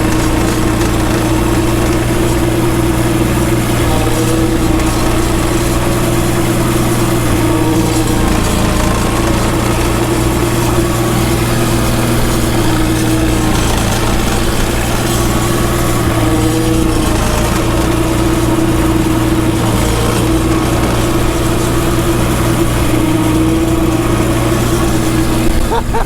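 Tractor engine running steadily while blowing snow, with a steady hiss over it.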